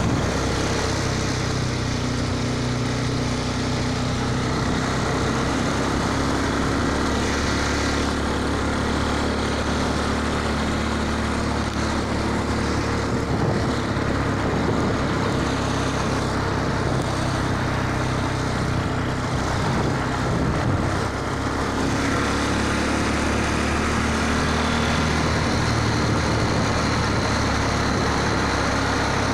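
Motorcycle engine running steadily, its note changing a couple of times.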